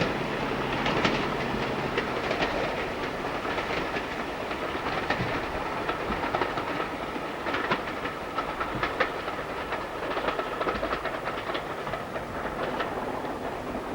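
A train running on jointed track, its wheels clattering with many irregular clicks over a steady rumble that slowly gets quieter.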